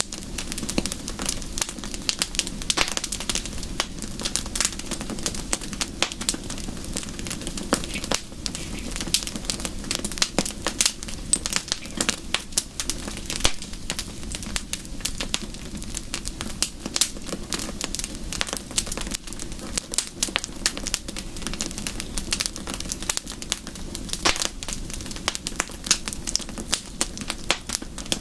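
Wood fire crackling steadily, with many irregular sharp pops and snaps over a steady low background noise.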